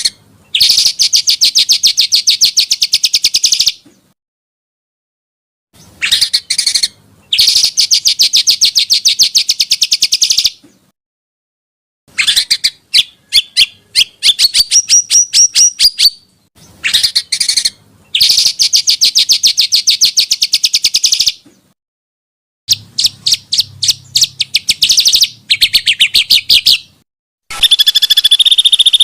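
Small songbird singing in repeated phrases, each a few sharp opening notes running into a long, very fast rolling trill, with clean silent gaps between phrases. Near the end a different steady, high buzzing trill takes over.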